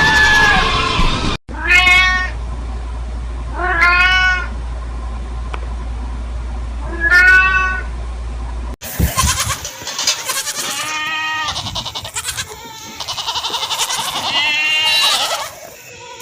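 A cat meowing three times, each call a separate rising-and-falling cry, over a low steady hum. After an abrupt cut, a busier stretch follows with several more animal calls close together.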